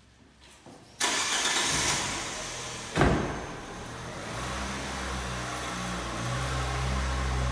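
Car door shut with a sharp thud about three seconds in, after a burst of noise about a second in. Then the 2014 Lancia Ypsilon's 1.2-litre petrol engine starts and settles into a steady idle.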